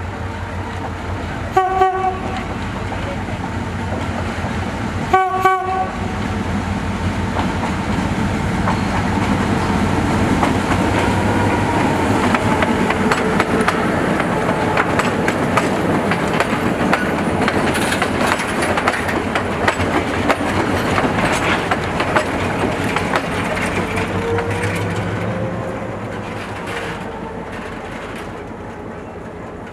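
Diesel-hauled passenger train sounding two short horn blasts, then rumbling in with its wheels clacking over the rail joints. The noise fades near the end as it slows.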